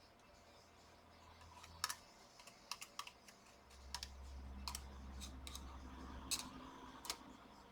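Scattered light clicks and taps, about ten at uneven intervals, from small laptop parts being handled during disassembly. A faint low hum comes in about halfway through.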